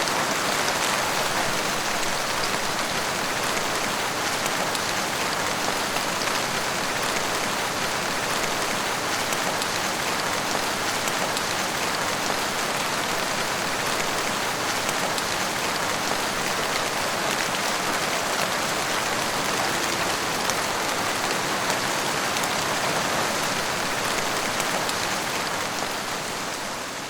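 Steady rain falling, a dense even hiss with fine patter of individual drops; it begins to fade out near the end.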